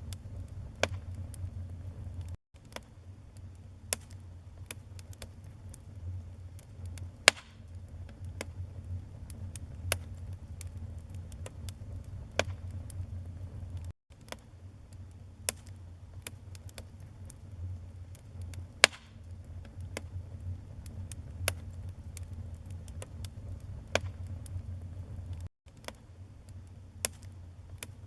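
Wood fire burning in a fireplace: a steady low rumble with sharp crackles and pops every second or so, two of them much louder, about a quarter and two-thirds of the way through. The sound drops out briefly three times.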